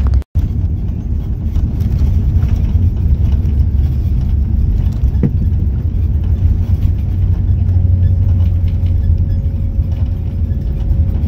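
Steady low rumble of a moving vehicle heard from inside it, with a faint steady tone joining about eight seconds in.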